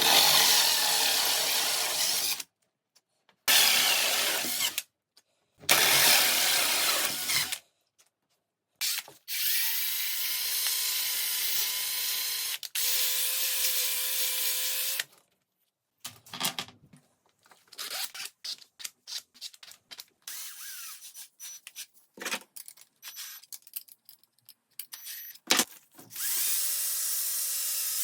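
Power tools working wood: three short bursts of cutting or sanding noise, then a motor running steadily with a whine for about six seconds. Scattered clicks and knocks follow, and a motor starts up again near the end.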